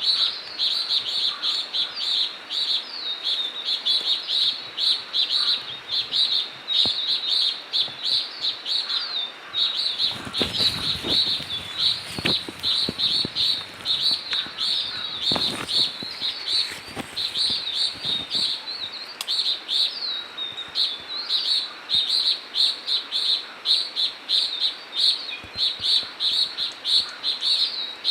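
A bird calling in quick, high chirps, several a second, over and over without pause, with a few soft knocks about halfway through.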